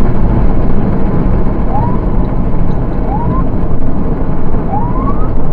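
Loud, steady vehicle and road noise, mostly low rumble. Three short rising whistle-like tones come through it, about two, three and five seconds in.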